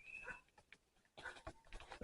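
A bird's high whistled call fading out about half a second in, followed by faint scattered rustles and light taps.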